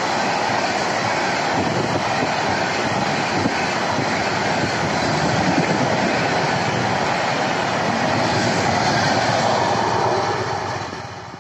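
Express passenger train's coaches passing at speed through a station platform: a loud, steady rush of wheels on rails, fading near the end as the last coach goes by.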